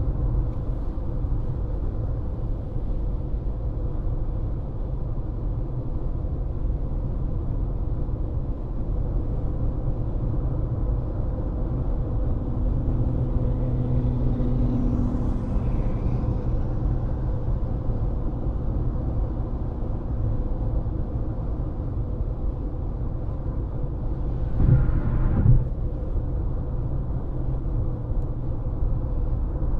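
Steady low road rumble of a car driving at speed, with two short thumps about twenty-five seconds in.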